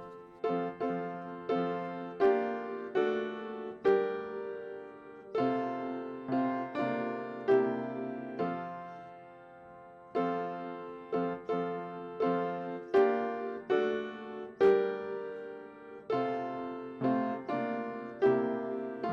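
Piano playing a slow, hymn-like piece: chords and single notes struck about once or twice a second and left to ring and fade.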